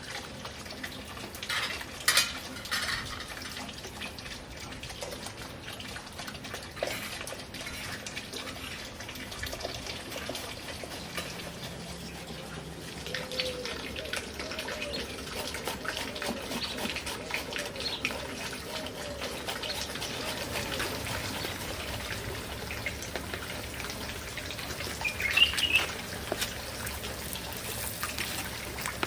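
Water trickling steadily, with a couple of sharp knocks about two seconds in and a short high chirp near the end.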